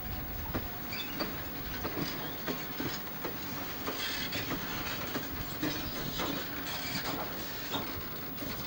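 Wheels of a heavy-load special transport wagon on many-axled bogies rolling slowly over the rails, knocking irregularly at the rail joints over a steady rumble, with a few brief wheel squeals.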